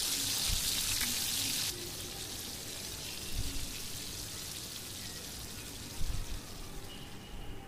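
Coarse onion-garlic paste sizzling in mustard oil in a steel kadhai while a wooden spatula stirs and scrapes it, with a few soft knocks of the spatula against the pan. The sizzle is loudest at first and drops lower a little under two seconds in.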